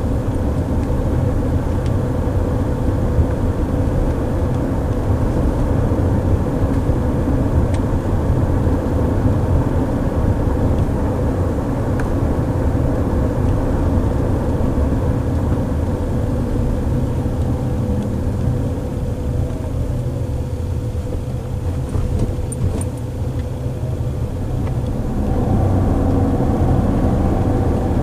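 Tyre and road noise of a moving car heard from inside the cabin: a steady low rumble with a faint steady hum. It eases off for a few seconds a little past the middle, then picks up again.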